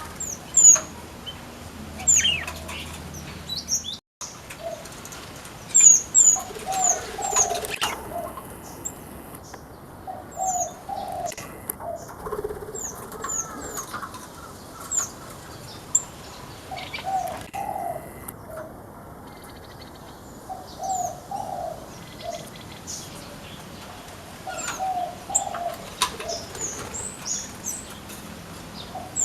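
Aviary birds calling throughout: small finches (flamboyan) give short high chirps, and a dove coos in low repeated notes every few seconds. Now and then there is a short sharp flutter of wings.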